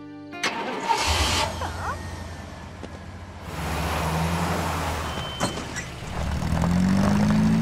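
Motor vehicle engine starting about a second in and running steadily, with a rush of noise joining from about three and a half seconds in and a rising pitch near the end as it pulls away.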